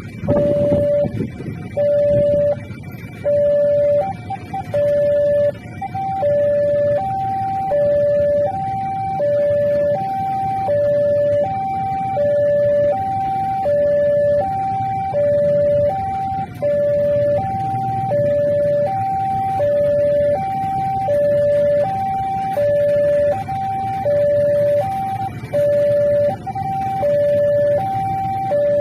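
Electronic warning signal of a railway level crossing, sounding two alternating tones, low-high, repeating evenly, each tone about half a second long: the signal that a train is approaching and the gates are closing. A low rumble of road traffic runs beneath it.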